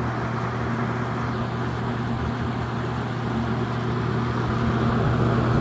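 A Toastmaster 4435 20-inch box fan with plastic banana blades running on high: a steady motor hum over the rush of air, fairly loud, as plastic-blade fans typically are on high.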